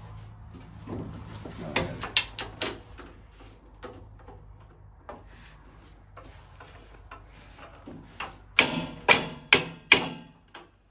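Metal tools clicking and clinking against a steel mounting bracket and bolt as a wrench works a bolt that won't catch its thread. Near the end come about four loud, sharp knocks about half a second apart.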